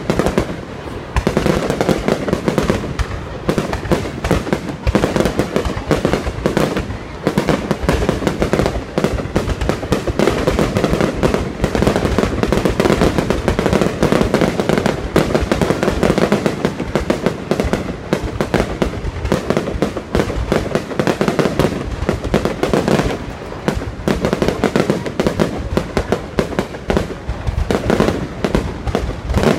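Fireworks going off in a dense, unbroken barrage of overlapping bangs and crackles.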